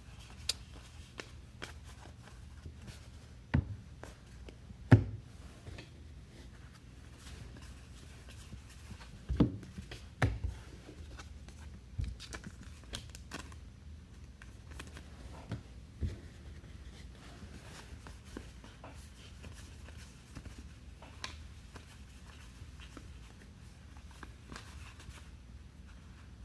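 Trading cards and packs being handled on a table: soft ticks and rustles of cards being flipped and sorted, with several low thumps of things being set down. The loudest thump comes about five seconds in.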